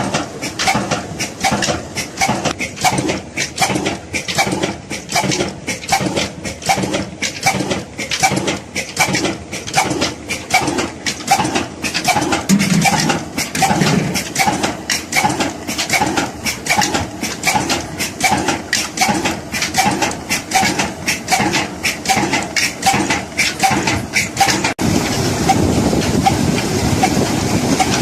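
Old Ruston Hornsby diesel engine running, with a steady beat of about three strokes a second. Two short low tones sound about halfway. Near the end the sound changes to a steadier hiss with the beat still underneath.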